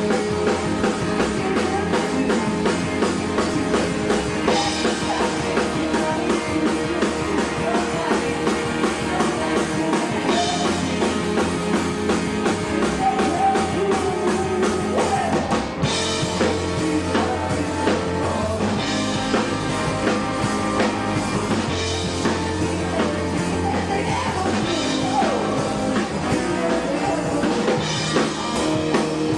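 A rock band playing live, loud and steady, with a drum kit keeping the beat under sustained instruments.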